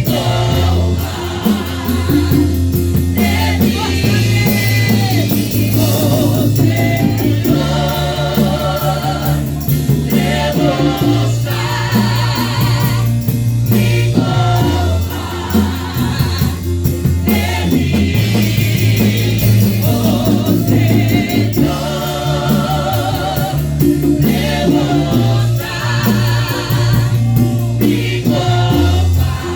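Worship band playing a gospel song, with a group of singers and a steady bass line underneath.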